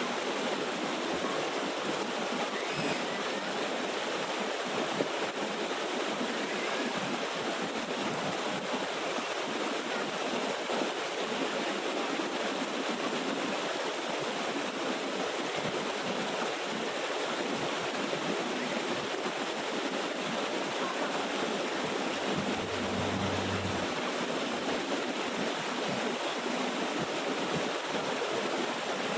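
Steady rushing of water falling and running down a small waterfall stream.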